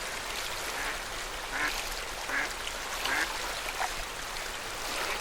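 Lake water lapping steadily at the shore, with a few short bird calls, about a second apart, near the middle.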